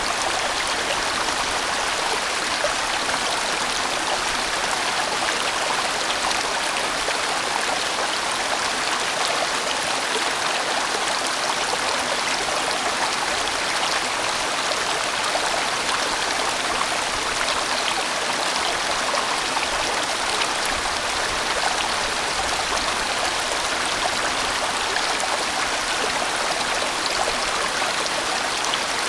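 Large mountain stream flowing steadily over rocks, a continuous rushing of water.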